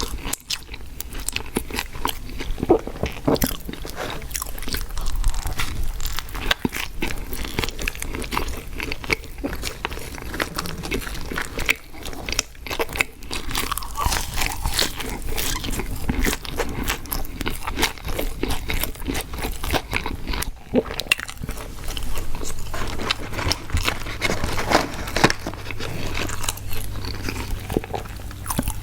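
Close-miked eating of fast food: continuous biting, crunching and wet chewing, with frequent crisp clicks.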